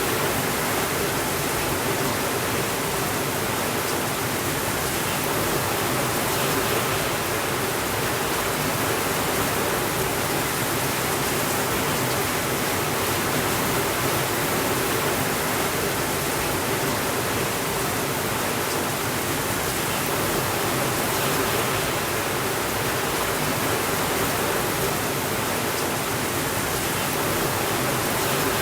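Steady rainfall: an even, unbroken hiss with no thunder and no changes in level.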